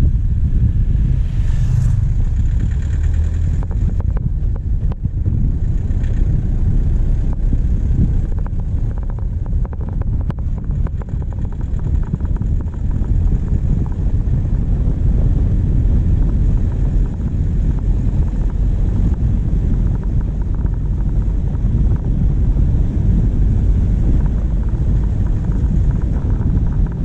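Diesel engine of a vehicle driving along a forest track, heard from the bonnet: a steady low rumble with wind buffeting the microphone.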